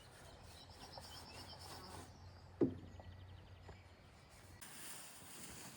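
Quiet outdoor ambience with faint bird chirps, a short rapid run of repeated high notes, and a single dull knock about two and a half seconds in.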